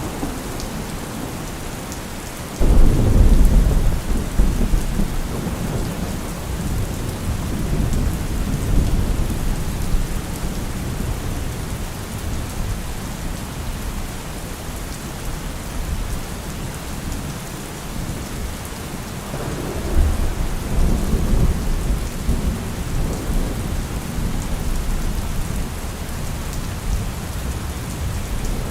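Steady rain falling. Thunder rolls over it: one starts suddenly a few seconds in, and another rumbles about two-thirds of the way through.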